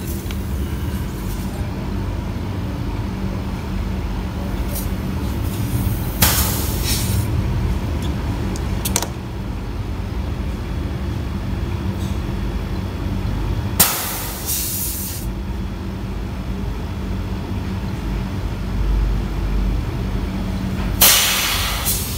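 Refrigerator compressor running with a steady hum while the lines are purged, with three short hisses of gas blowing out of the pipes.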